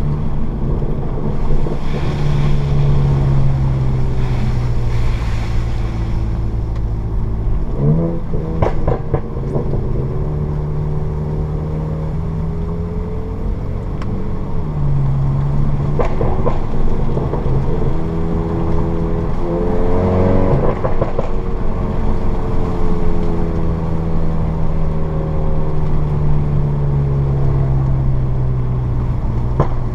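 Turbocharged 2.0-litre four-cylinder of a 2015 VW Golf GTI Mk7, running an APR Stage 2 crackle tune through a Borla S-Type catback exhaust, pulling along at a steady engine note over road rumble. The pitch jumps sharply twice, about a quarter and two-thirds of the way in, and a few sharp pops and crackles come out of the exhaust around those changes.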